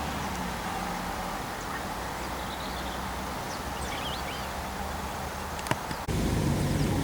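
Steady drone of a distant airliner's engines with small birds chirping a few times. About six seconds in the sound cuts abruptly to a louder, steady engine drone.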